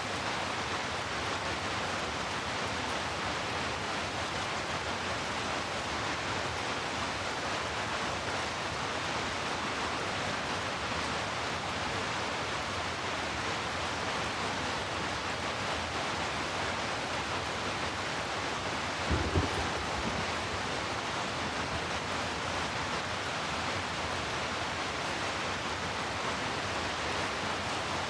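Heavy rain falling steadily as one dense, even hiss, with a deep rumble underneath. About two-thirds of the way in there is a brief low thump.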